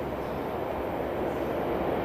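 Tokyo Metro 5000 series subway train running, a steady rumble of wheels and motors on the rails that grows slowly louder.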